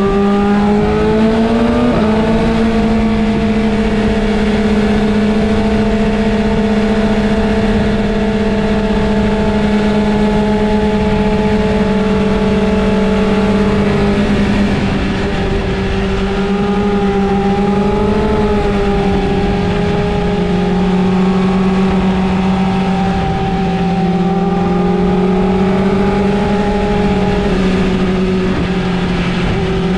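Inline-four sport motorcycle engine running at steady high revs. Its pitch rises about two seconds in and shifts slightly lower around the middle.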